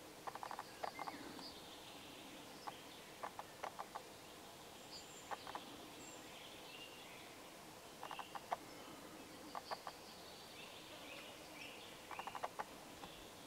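Faint birdsong with short chirps and glides. Brief quick-fire rattling series of clicks come every one to three seconds and are the loudest sounds.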